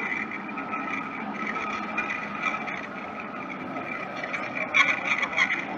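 Jet airliner engines running with a steady whine over a broad rumble. A few sharper clatters come near the end.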